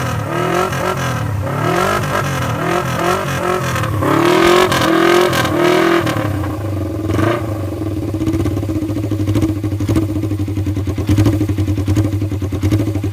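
Suzuki GSX250E motorcycle's parallel-twin engine on its pre-change muffler, revved in quick throttle blips about once a second for about six seconds, then settling to a steady idle with one more short blip.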